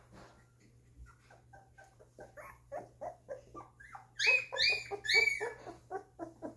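Two-week-old golden retriever puppies crying in a string of short, pitched cries. The cries grow loudest and highest about four to five and a half seconds in, then ease off.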